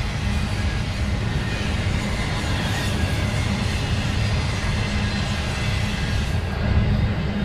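CSX intermodal train running past at track side: a steady, loud diesel locomotive rumble mixed with rolling wheel noise on the rails.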